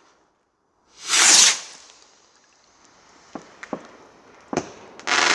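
Garden firework going off: a loud hissing whoosh about a second in, a few faint sharp pops, then another whoosh near the end.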